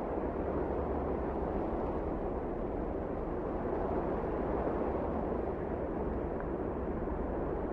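Wind blowing steadily: an even, low rushing noise that does not rise or fall.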